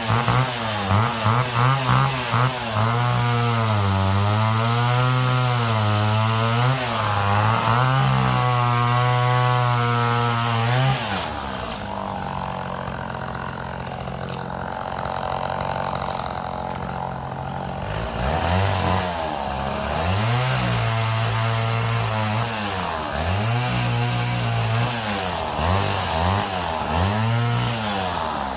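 Two-stroke chainsaw cutting wood, its engine pitch sagging and recovering as the bar bogs in the cut. About eleven seconds in it drops to a lower, quieter idle for several seconds, then is revved back up and cuts again in a run of rises and falls.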